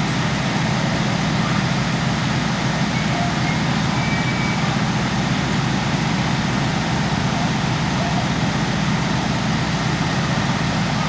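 Steady low rumble of heavy engines idling, under a constant hiss.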